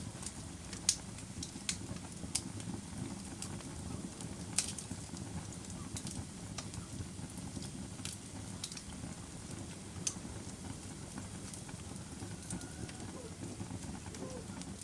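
Wood fire burning in a fireplace: a steady low rumble of flames with scattered sharp crackles and pops, about a dozen, irregularly spaced.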